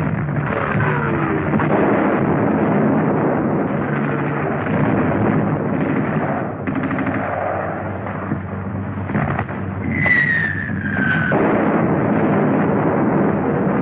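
Dense battle noise of gunfire and artillery on a 1940s film soundtrack, with a falling whistle about ten seconds in that breaks off a second and a half later.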